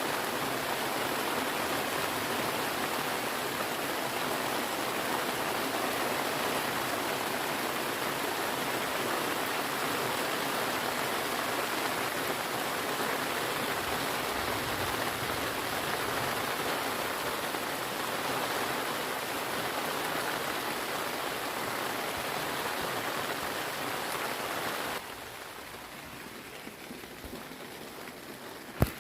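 Steady rain falling, a dense even hiss. About 25 seconds in it drops abruptly to a quieter rain sound, and a single sharp tick comes just before the end.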